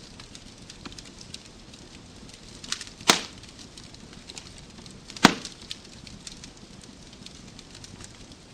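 Wood fire crackling in a fireplace: a steady low hiss with scattered small crackles, and two loud sharp pops about three and five seconds in.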